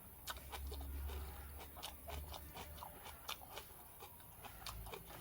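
A person chewing food close to the microphone: irregular wet clicks and crunches from the mouth, with a low rumble for the first couple of seconds.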